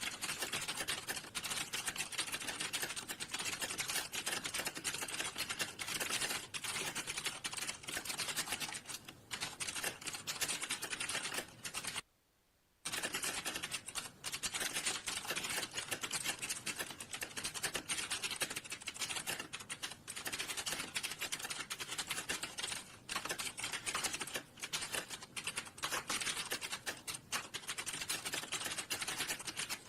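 Fast, continuous typing on a computer keyboard: a dense run of key clicks, broken by a brief dead-silent gap about twelve seconds in.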